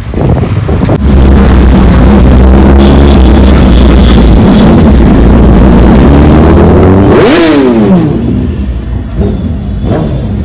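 A supercar's engine, loud and steady from about a second in, then revving higher and dropping sharply in pitch about seven seconds in as it passes and fades.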